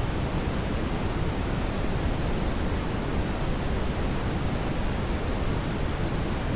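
Steady brown noise: a constant, even rumbling hiss weighted toward the low end, with no breaks or changes.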